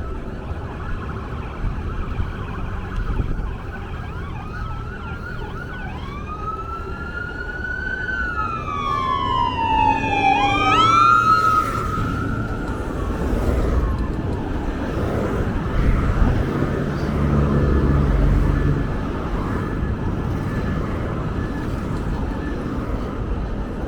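Siren wailing, its pitch rising and falling slowly for several seconds, then a few quick upward sweeps before it fades, over a steady low vehicle rumble.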